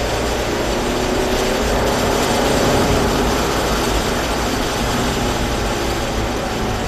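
Mazda3 1.6's engine heard from inside the cabin, pulling under acceleration, its note rising over the first few seconds and then levelling off, over a steady hiss of tyres on a wet track.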